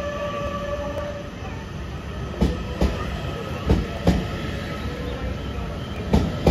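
A train running past over rail joints: sharp wheel clacks come in pairs, a pair about every second and a half, over a steady rolling rumble. A set of steady tones fades out about a second in.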